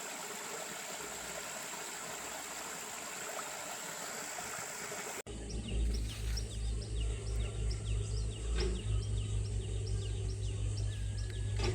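Outdoor ambience: a steady high hiss with a constant whine, like insects droning. About five seconds in it cuts abruptly to a bird chirping repeatedly, short falling notes about twice a second, over a pulsing low rumble.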